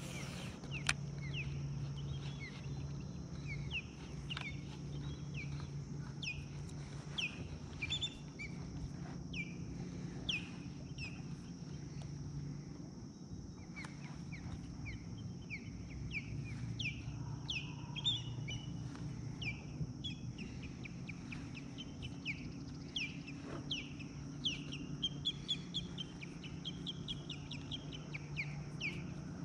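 Birds calling: a long series of short, high chirps, each sliding down in pitch, coming about one or two a second over a steady low hum.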